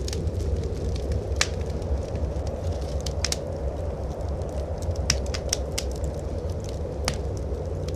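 Wood fire crackling in a fireplace, with a few sharp pops scattered through, over a steady low rumble of blizzard wind.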